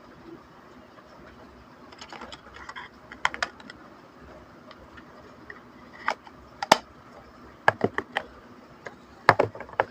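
Small hard plastic pieces clicking and tapping as they are handled. The clicks come in irregular little clusters, with a few sharper single clicks in the second half.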